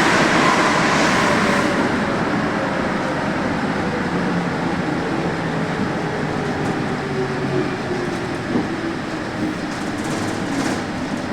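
Santiago Metro NS-74 rubber-tyred metro train running, its motor tones sliding slowly down in pitch as the sound gradually fades, with a few light knocks near the end.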